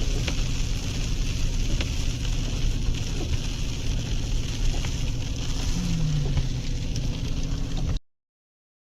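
Vehicle engine and road noise while driving, a steady low rumble that stops abruptly about eight seconds in.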